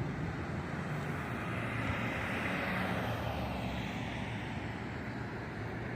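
Outdoor city street ambience: steady traffic noise, swelling and easing as a vehicle passes about two to three seconds in.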